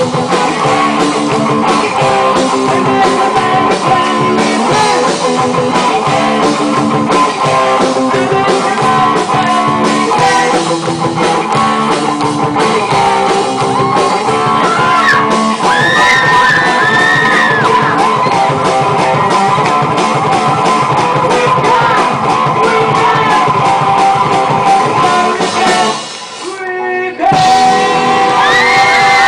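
A rock band playing with singing, guitar and keyboard. The music cuts out for about a second near the end, then comes back in with the voice.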